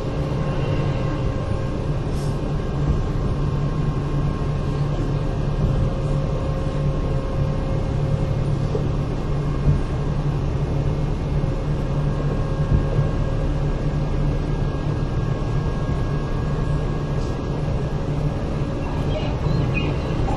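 Kintetsu 8000 series electric train running, heard from inside the passenger car: a steady rumble of wheels on rails with a constant motor hum.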